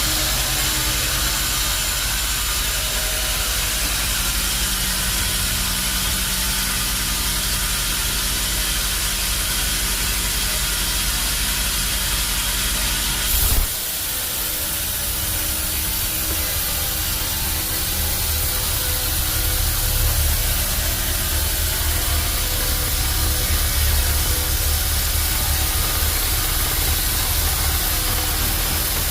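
Band sawmill running, a steady hissing machine noise with a low rumble underneath. About halfway through there is a brief louder burst, the low rumble drops away, then builds back up.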